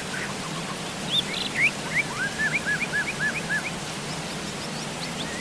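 Steady rain falling, with a songbird calling over it: a quick series of short, repeated, arching notes, about four a second, starting about a second in and stopping a little past halfway.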